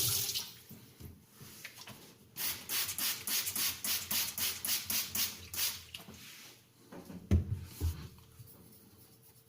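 Running tap water stops, then a wet aluminium oxide sharpening stone is rubbed clean in quick, even back-and-forth strokes, about three a second. Two dull knocks follow a little later.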